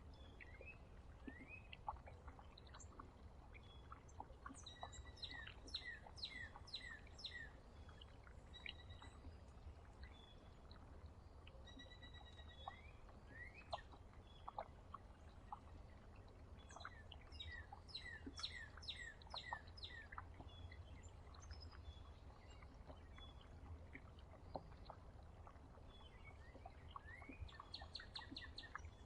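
Songbirds singing faintly near a bird feeder: two bursts of rapid repeated sliding notes, about a third of the way in and again past halfway, scattered single chirps, and a short fast trill near the end, over a low steady hum.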